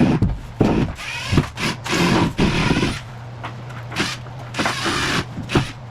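Power drill driving screws out of the floor in a series of short, irregular bursts.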